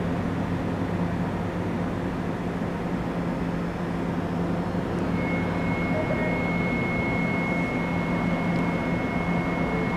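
NJ Transit bi-level commuter train standing at the platform with a steady low hum from its running equipment. About halfway through, a thin steady high whine joins in and holds.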